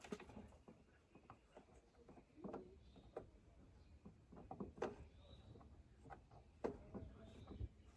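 Faint scattered clicks and knocks of things being handled, a couple of them sharper, with a faint short high chirp repeating about every two seconds.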